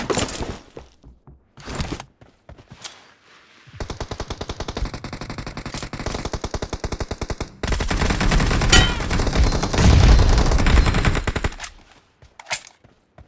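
Automatic gunfire sound effects in a first-person shooter game: a few short shots, then rapid sustained automatic fire for about eight seconds that grows louder and heavier about halfway through, and one last short burst near the end.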